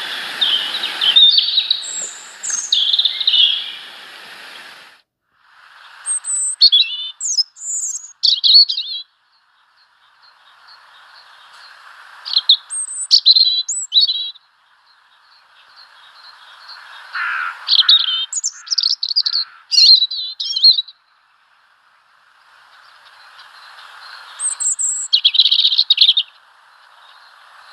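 Small songbirds chirping and calling in short clusters of high, quick notes, several bursts in turn, over a faint steady hiss.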